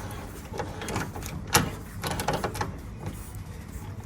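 Balcony door being unlatched and opened: a few clicks and rattles of the handle and frame, the sharpest about a second and a half in.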